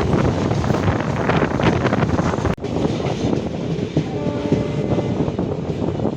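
Indian passenger express train running at speed, heard from on board: steady rumble and rattle of the wheels on the rails. It cuts out abruptly for an instant about two and a half seconds in, and a few faint thin tones sound briefly after about four seconds.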